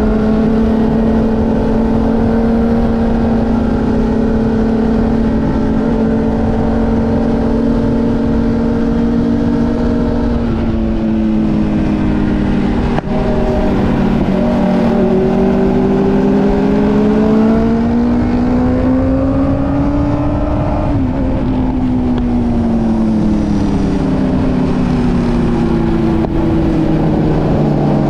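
A motorcycle engine under way, its note holding steady, dropping, then slowly rising and falling again as the rider works the throttle and gears.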